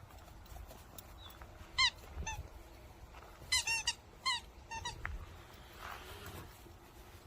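A squeaky toy ball squeaking in short, high squeaks as a young Jindo dog bites and chews it: about eight squeaks, one or two at a time and then a quick run of four.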